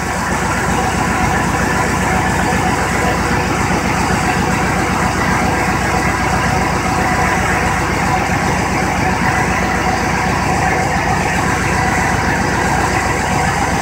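Chevrolet LT1 V8 engine idling steadily.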